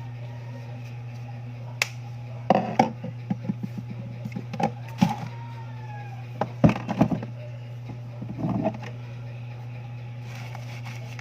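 Irregular knocks and clatter from slime-making containers and utensils being handled, spread over several seconds, against a steady low hum.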